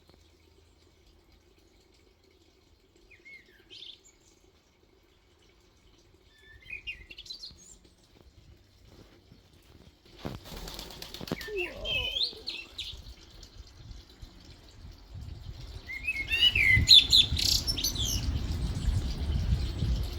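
Small birds chirping and calling, a few short scattered notes at first, then busier calls and a loud burst of quick chirps about three-quarters of the way in. A low rumbling noise rises underneath in the last few seconds.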